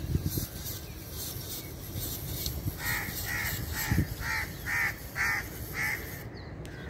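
A bird calling about seven times in quick succession, roughly two calls a second, over a steady low rumble, with a single knock midway through the calls.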